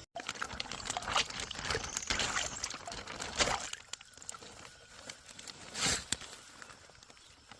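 Water pouring and splashing into a pond as hybrid bluegill are released, tapering off after about three and a half seconds, with one more short splash near six seconds.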